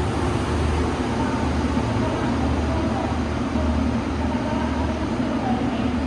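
Train at a station platform: a steady low rumble with a hum, without breaks or sudden sounds.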